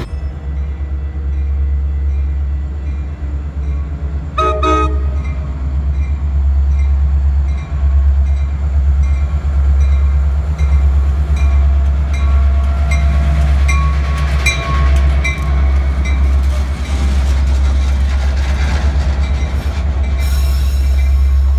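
Metra MP36PH-3S diesel locomotive and bilevel coaches passing close by: the engine gives a steady low drone, there is a short horn toot about four and a half seconds in, and the locomotive bell rings steadily from about six seconds in.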